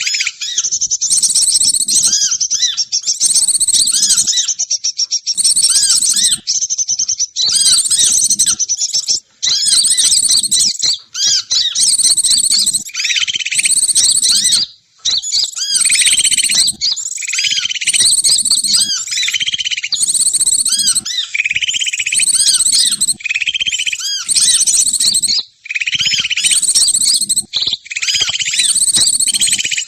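Bird-trapping lure recording of small songbirds calling: dense, high-pitched rapid trills and chirps almost without a break.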